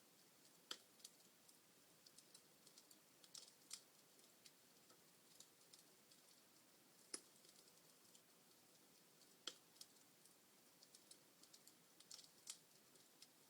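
Wood fire crackling in a fireplace: faint, irregular pops and ticks, with a few louder snaps spread through, over a soft hiss.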